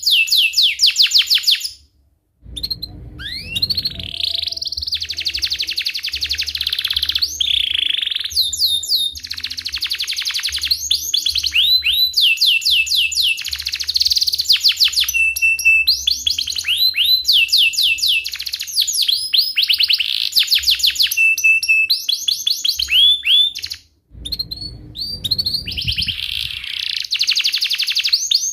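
Canary singing continuously: fast rolling trills of repeated falling notes mixed with chirps. The song breaks off twice for a moment, about two seconds in and near the end.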